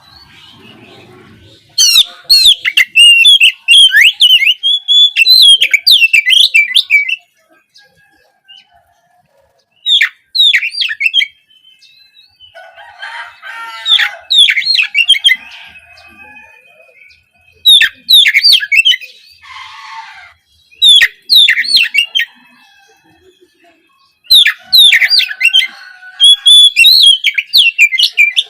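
Oriental magpie-robin (kacer) singing in loud bouts of rapid, varied whistles and chattering notes, broken by short pauses.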